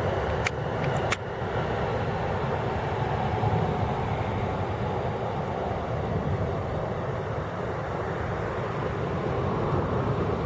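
Steady distant road-traffic rumble, with two sharp clicks about half a second and a second in.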